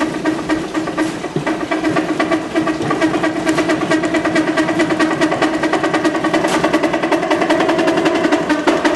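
Pedal-driven washing machine's spin attachment running under bicycle power, spinning a load of wet laundry: a steady mechanical hum with a regular pulsing a few times a second that grows louder.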